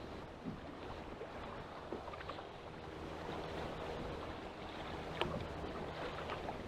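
Wind on the microphone and choppy sea water moving around a small fishing boat, a steady rushing noise. A few light clicks and knocks come through, the sharpest a little after five seconds in.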